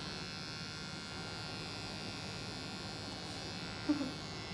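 Electric hair clippers running steadily while shaving a cat's fur, with a short louder sound about four seconds in.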